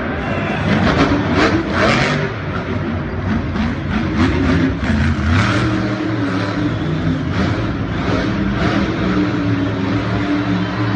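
Racing truck engines revving and accelerating, several engine notes rising and falling in pitch, with repeated short rushes of noise over them.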